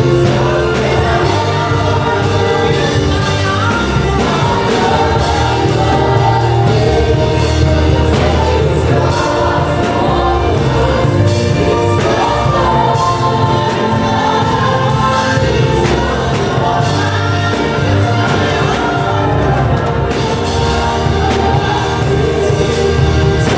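Gospel worship music: a choir singing over a band with a steady bass line.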